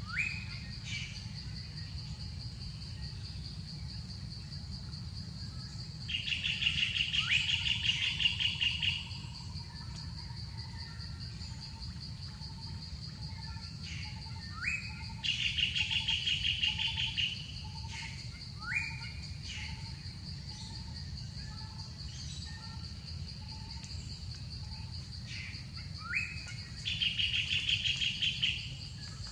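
Forest birds calling over a steady, high-pitched insect drone. Scattered short rising whistles are heard, along with three loud bursts of rapid trilling, each two to three seconds long, spaced roughly ten seconds apart.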